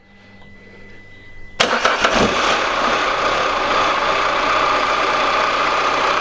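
Peugeot 207's 1.6 VTi EP6 petrol engine starting suddenly about a second and a half in, then idling steadily with a pretty rattly sound from the timing chain, the sign of a worn chain, guide rails or tensioner.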